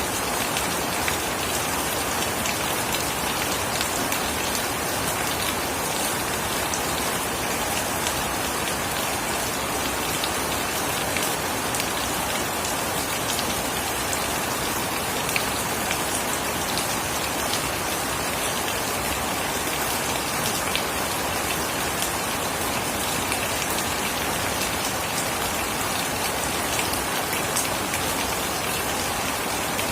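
Steady rain, with a continuous hiss of drops and scattered sharper drop ticks on nearby surfaces.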